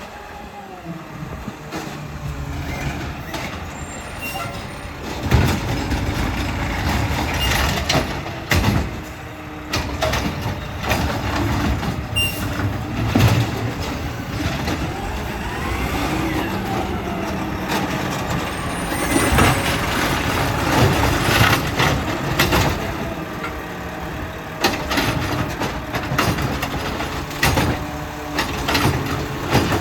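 Garbage truck at work: its diesel engine runs steadily, with air-brake hisses and several sharp bangs, and a rising and falling whine partway through.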